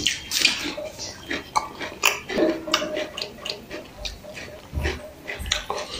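A man biting into a whole raw onion and chewing, with close, crisp crunches and wet mouth clicks repeating irregularly.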